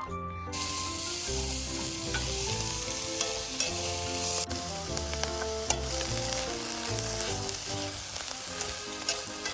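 Food sizzling as it fries in a pan, starting about half a second in, with background music playing over it.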